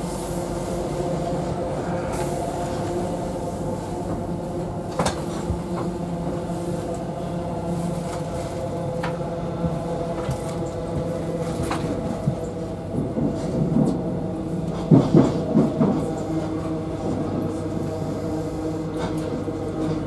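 Interior of a moving Class 43 HST passenger coach: a steady running hum with rolling noise, broken by occasional sharp wheel clicks on the track. Past the middle come several louder knocks and rattles in quick succession.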